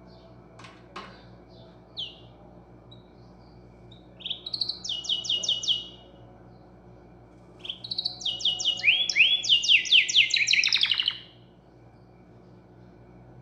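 A songbird singing two rapid trilled phrases of fast-repeated, downward-sweeping high notes, the second longer and louder than the first, with a few faint short chirps and a sharp click about a second in.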